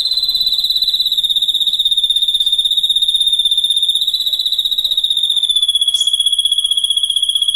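An insect's continuous high-pitched trill, rapidly pulsing and unbroken, easing slightly lower in pitch about five and a half seconds in. A brief faint bird chirp comes just after that.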